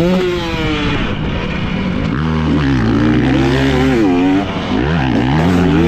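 Dirt bike engine revving up and down as it is ridden, its pitch rising sharply at the start, then dropping and climbing again several times.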